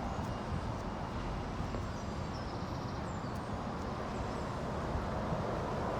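Steady road traffic noise: the hum and tyre rush of vehicles passing on a busy road, swelling slightly toward the end.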